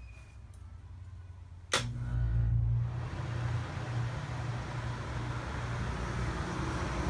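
A sharp click about two seconds in, as the relay or contactor pulls in, then a Coleman rooftop RV air conditioner starts: a loud low hum comes on at once and a steady fan rush builds up over the following seconds.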